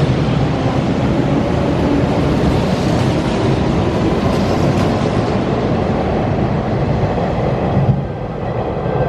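Hanshin Railway electric train running past a station platform: a loud, steady rumble of wheels and running gear. About eight seconds in it cuts off suddenly to much quieter platform sound.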